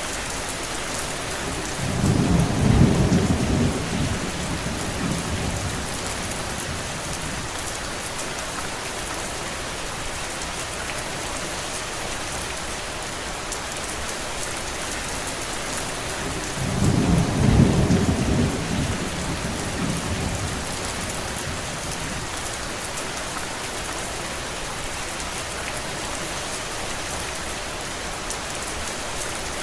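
Steady rain. A low rumble swells and fades about two seconds in, and again about halfway through.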